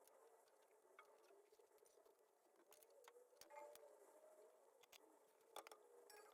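Near silence, broken by a few faint scattered clicks and ticks, the strongest about five and a half seconds in, over a faint wavering background hum.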